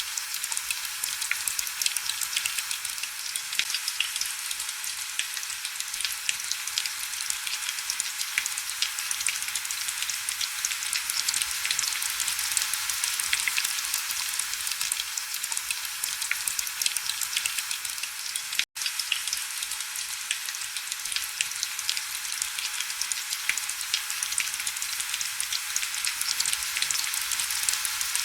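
Steady heavy rain: a dense hiss of countless fine, crackling patters, mostly high-pitched with little low rumble. It cuts out for a split second about two-thirds of the way through.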